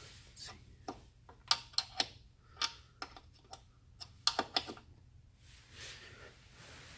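A dozen or so light, irregularly spaced clicks and taps in the first five seconds, then only faint background.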